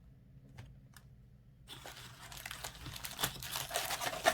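Foil trading-card pack wrapper crinkling as it is handled and torn open. A few faint clicks first, then the crinkling starts a little under two seconds in and grows louder toward the end.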